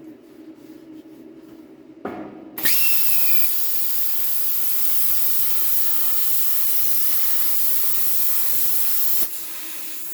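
A loud, steady hiss that comes on abruptly about two and a half seconds in, just after a brief rising whine. It runs for about seven seconds, cuts off, and a quieter hiss carries on for about a second.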